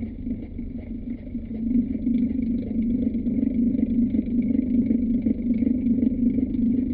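Old electric household fan running steadily: an even low hum with a faint high whine above it.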